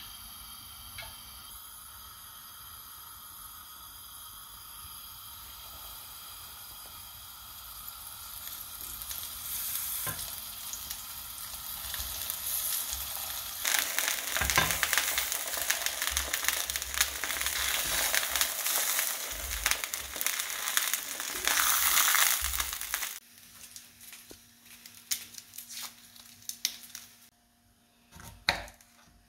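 Portobello mushroom caps frying in oil in a cast-iron skillet: a steady sizzle that grows louder and turns into a loud crackling sizzle about halfway through, then cuts off suddenly. After that come a few sharp taps of a knife on a wooden cutting board as garlic is sliced.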